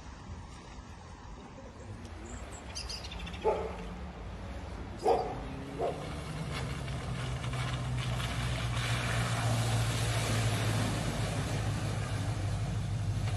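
A dog barks three times, then a vehicle engine draws closer, its low hum and road noise growing louder through the second half.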